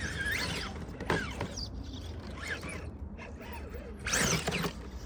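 Radio-controlled rock crawler's electric motor and geared drivetrain whining in short bursts as the throttle is blipped, rising and falling in pitch, with the loudest burst about four seconds in.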